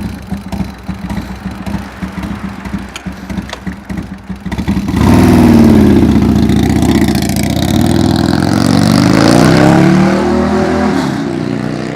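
Motorcycle engine idling, then about five seconds in it suddenly gets loud as the bike is ridden off. The engine note swings down, climbs again and falls away near the end.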